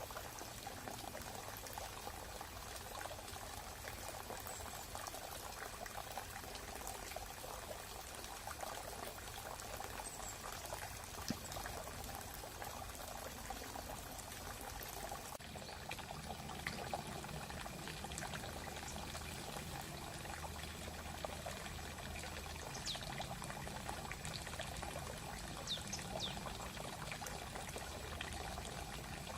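A small stream trickling and babbling steadily over stones, with a few brief high bird chirps in the background.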